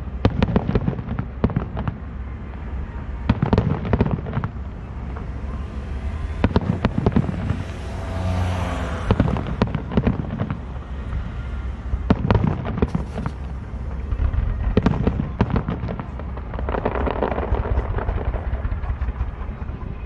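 Aerial firework shells bursting in a rapid, irregular series of sharp booms, with a longer rushing, crackling stretch about eight seconds in.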